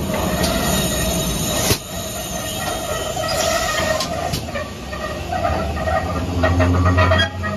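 Steam-hauled passenger train moving slowly alongside another train, its wheels squealing steadily on the rails, with a couple of sharp clicks; a deeper hum comes in near the end.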